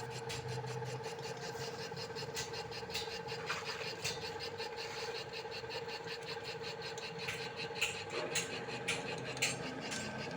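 A motorcycle cylinder boring machine running: a steady hum with fast, regular ticking, and a few sharper clicks near the end.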